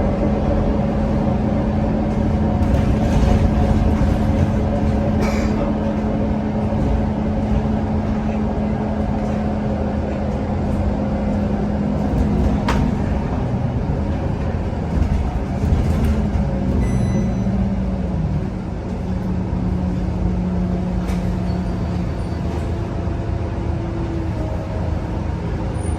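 Scania K230UB bus heard from inside the cabin while driving: its 9-litre five-cylinder diesel engine hums steadily over road noise, and the engine note shifts about two-thirds through as the bus changes speed. A short high tone sounds at about the same point.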